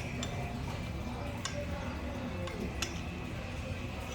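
Metal parts clinking as they are handled: three sharp clicks about a second and a quarter apart, over a low steady background rumble.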